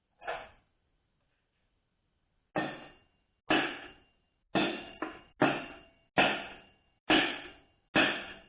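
Hammer taps on a part being driven down into a 4L60E transmission case: about nine light, sharp metal strikes roughly a second apart, each with a brief ring. The part is not yet seated.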